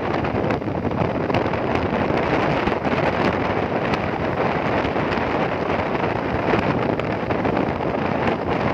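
Wind buffeting the microphone of a moving motorcycle, a steady rushing noise with the bike's engine running beneath it.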